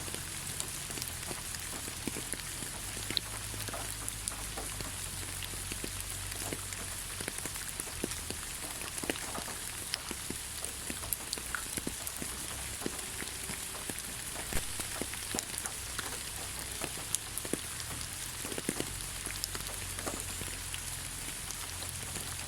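Steady rain falling on leaves: a continuous hiss with many scattered, irregular drop ticks.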